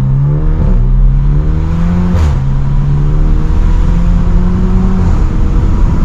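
Straight-piped, Stage 2+ tuned BMW F30 328i turbocharged four-cylinder accelerating hard. The engine note climbs in pitch, drops back at gear shifts about 0.7 s and 2.3 s in, then climbs more slowly and levels off about five seconds in.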